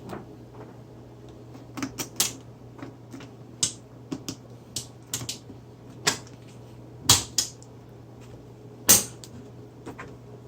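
Irregular metallic clicks and knocks from handling the battery pack on the steel ebike rack and its latches, the loudest two knocks about seven and nine seconds in, over a faint low steady hum.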